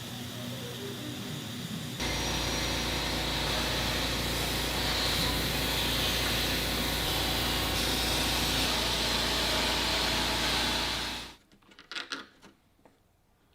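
A workshop power tool or machine running with a steady rushing noise and low hum. It gets louder about two seconds in and stops abruptly near eleven seconds, followed by a few light knocks.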